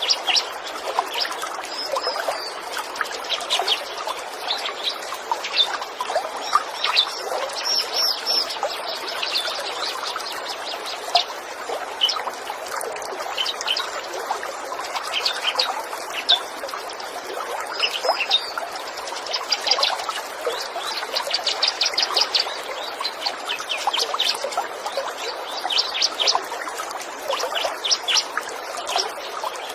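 Small birds chirping in quick, high, repeated calls over the steady rush of a trickling stream: a nature ambience of birdsong and running water.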